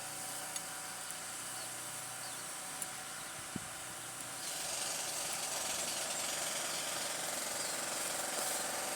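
Neighbourhood construction work: a power tool of the jackhammer kind starts up about halfway through and rattles steadily over background hiss, with a few faint knocks earlier on.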